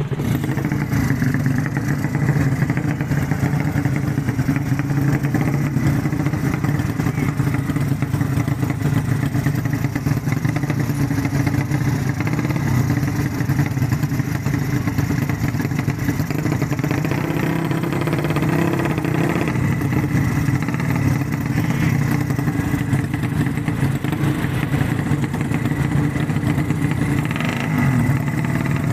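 Racing underbone (bebek) motorcycle engine running loud and steady, with little change in pitch.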